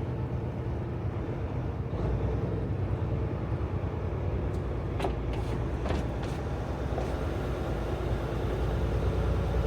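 Tractor-trailer driving down the road, heard from inside the cab: a steady low diesel engine and road drone, with a few light clicks about halfway through.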